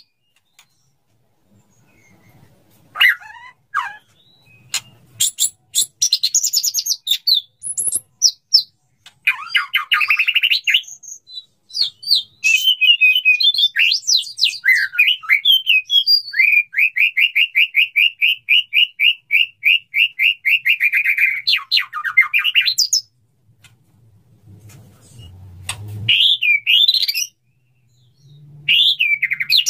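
Male white-rumped shama singing a varied courtship song: sharp clicks and whistled phrases, then a long, fast run of evenly repeated notes lasting several seconds, followed by more short phrases.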